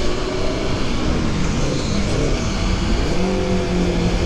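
Motorcycle engines running in a group ride, their pitch rising and falling with the throttle and then holding steady near the end, under steady wind rush on the helmet-mounted microphone.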